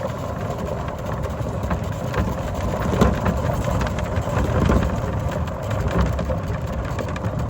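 A vehicle driving up a gravel driveway: a steady low engine rumble with the tires crackling over loose gravel.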